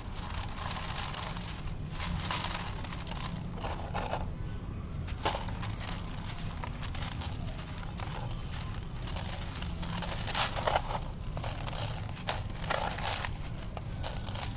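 Dry, dusty black concrete crumbling, a continuous run of crunches and crackles with louder, denser snaps about two-thirds of the way through, over a steady low hum.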